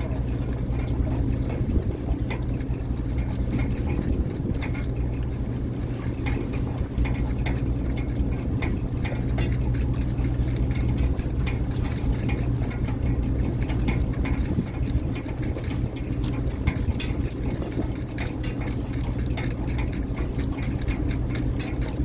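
Fishing boat's engine running steadily, with many irregular clicks and rattles over the hum.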